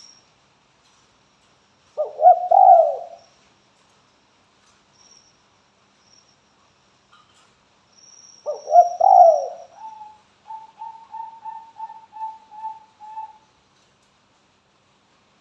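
Spotted dove (tekukur) cooing: two deep cooing phrases about six seconds apart, the second followed by a quick run of about nine short repeated coos. This is the call used to get other doves to answer.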